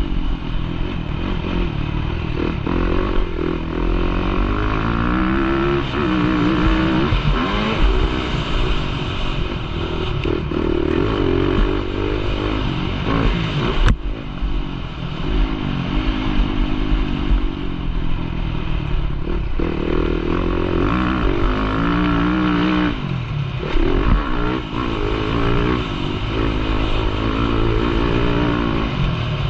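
Motocross bike's engine, heard from a camera mounted on the bike, revving up and falling off again and again as the rider accelerates and shuts off around the track. There is a single sharp knock about 14 seconds in.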